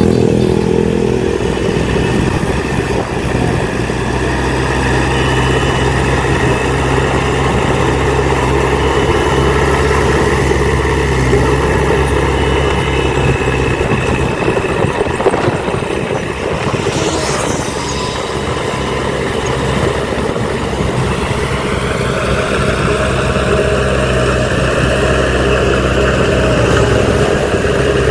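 Heavy diesel earthmoving machinery running steadily at work, a dump truck and bulldozer engine note; about three quarters of the way through the engine speeds up, its pitch rising.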